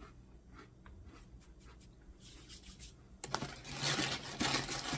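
Crunchy crackers being chewed: a few faint clicks at first, then about three seconds in a loud run of crackly crunching bites.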